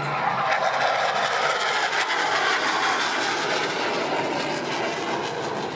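Jet noise from T-50B Golden Eagle trainers, each powered by a single turbofan, passing in a steady, loud rush with some crackle.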